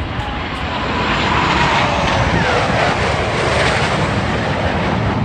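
Jet aircraft passing low overhead, a loud engine roar that swells about a second in, with a whine falling in pitch as it goes by.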